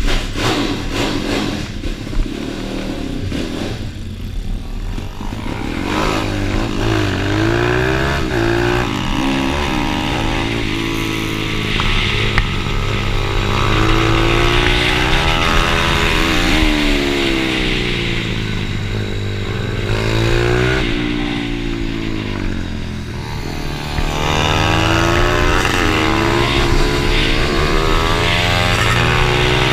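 Pit bike's single-cylinder engine revving hard, its pitch rising and dropping over and over as it accelerates, shifts and brakes through a lap.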